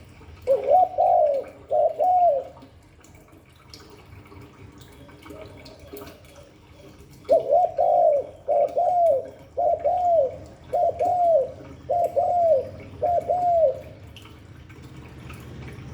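Spotted dove cooing: two arched coos at the start, then after a pause a run of six even coos, about one a second.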